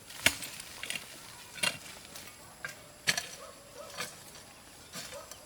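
Repeated sharp chopping strikes, five in a row about a second and a half apart, the last two weaker.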